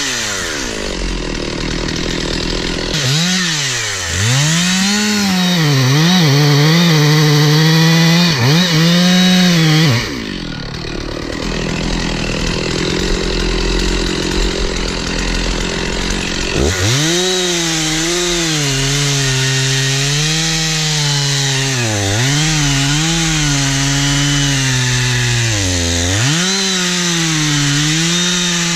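Stihl 046 chainsaw cutting into a tree trunk, its engine pitch sagging and recovering again and again as the chain loads up in the wood. It drops back to idle for the first few seconds and again for about seven seconds from roughly ten seconds in.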